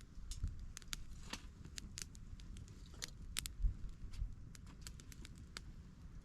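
Campfire of small twigs burning, crackling and snapping at irregular moments, with a couple of dull low thumps a little past halfway.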